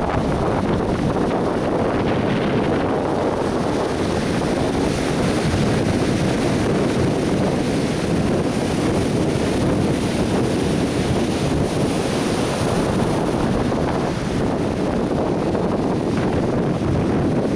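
Atlantic surf breaking and washing on a beach, a steady dense roar of waves, with wind buffeting the microphone.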